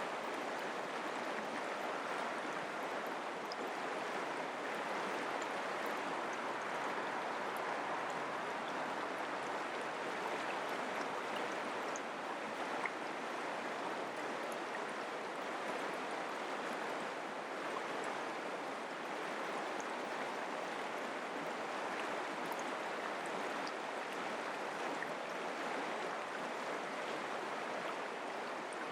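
Mountain creek flowing: a steady, even rush of running water with faint little splashes.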